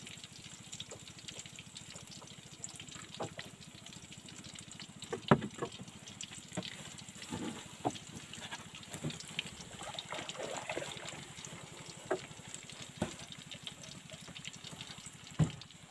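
Low, steady sizzle of shrimp frying in a wok on a portable gas stove, with scattered clicks and knocks from a knife and utensils; the sharpest knock comes about five seconds in.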